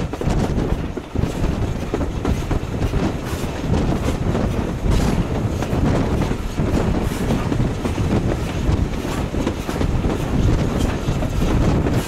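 Railway carriage running along the track: a steady rumble from the wheels, with short clicks as they pass over the rail joints.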